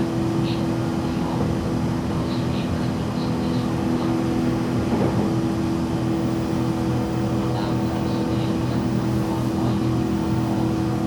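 Running sound heard inside the cabin of a 117 series electric train: a steady hum from the traction motors and gearing under a constant rumble of wheels on rail.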